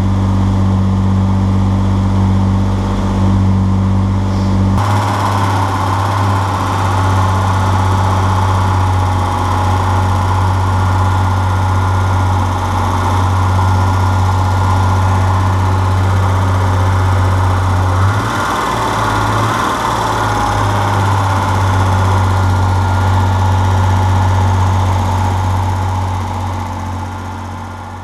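BMW 7 Series engine idling loud and steady through its reworked exhaust, with the idle still running high. The sound shifts abruptly about five seconds in, with a new hiss-like band added. It fades out near the end.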